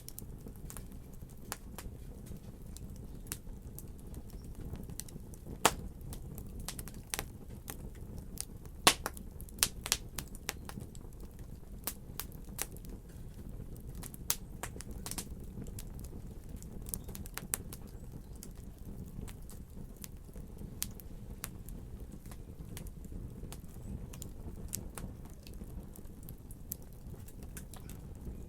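Wood fire crackling, with irregular sharp pops and snaps over a steady low rumble. The loudest pops come about five and nine seconds in.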